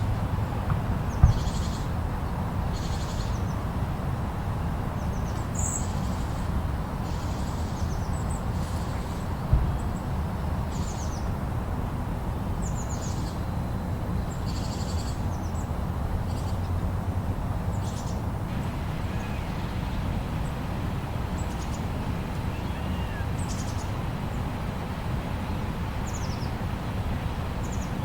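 Steady low wind noise of a snowstorm, with birds chirping in short high calls every second or two over it. There are two sharp knocks, about a second in and near the ten-second mark.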